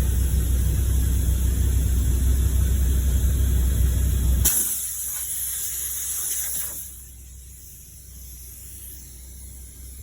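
A steady low running noise stops abruptly about halfway through. A sharp hiss of air escaping from the punctured car tyre follows, loudest for about two seconds, then dropping to a faint steady hiss.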